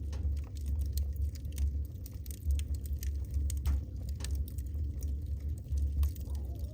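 Wood fire burning in a fireplace, logs crackling with frequent irregular sharp pops over a steady low rumble of the flames. A faint falling whistle comes in near the end.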